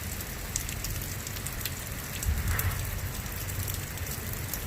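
Rain falling steadily, with scattered sharp ticks of drops over a low steady rumble.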